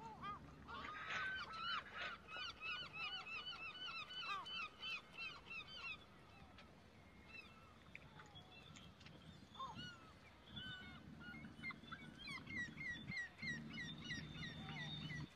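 A bird calling in quick runs of short, repeated squeaky notes, about five a second, in two bouts. A low hum sits beneath the second bout.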